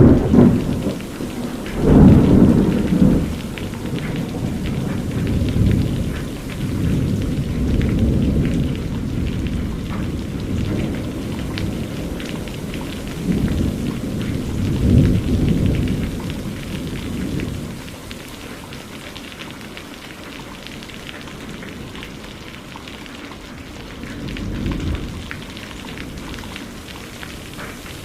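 Steady rain with rolling thunder: an even patter throughout, with low rumbles swelling and fading, the loudest about two seconds in and others near the middle and near the end.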